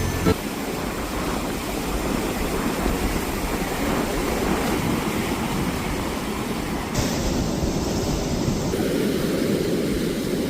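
Sea surf: waves washing steadily onto the shore, with the rush swelling a little around seven seconds in.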